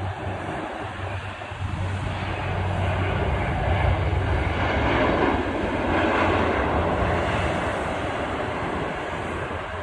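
Passenger airliner's engines running as it taxies past, a steady rush with a low hum that swells to a peak about halfway through and then eases off.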